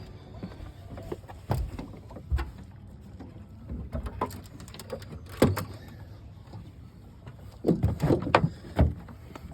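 Irregular knocks and clunks of handling on a small fishing boat, with a quick run of louder clunks near the end.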